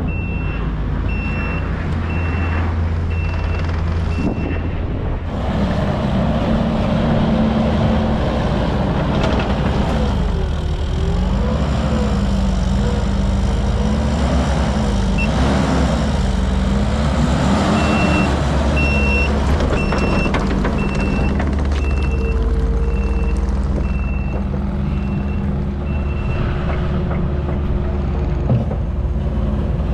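Engine of heavy snow-clearing equipment running, its pitch rising and falling through the middle as it works, with a backup alarm beeping a little more than once a second at the start and again for several seconds from about the middle on.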